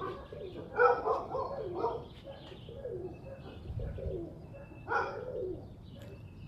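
Domestic pigeons cooing, a series of low wavering coos with two louder calls, about a second in and about five seconds in, with faint high bird chirps.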